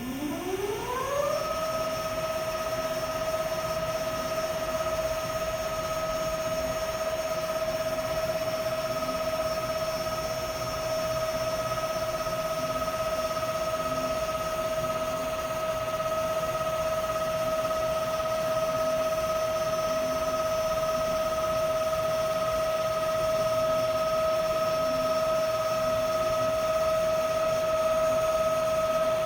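Hyd-Mech V-20 vertical band saw's electric drive spinning up: a whine that rises in pitch over the first second and a half, then runs at a steady pitch.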